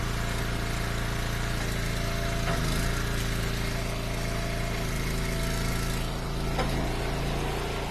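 Small gas engine of an Eastonmade Ultra log splitter running steadily, its pitch and level shifting slightly a few times.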